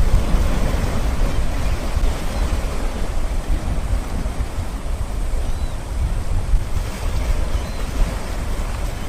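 River fountain jets spraying and splashing back onto the water in a steady rushing hiss, with wind rumbling on the microphone.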